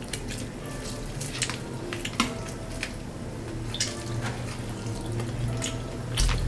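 Close-miked eating sounds: bites and chewing of crispy coated fried chicken, with scattered crunches and wet mouth clicks.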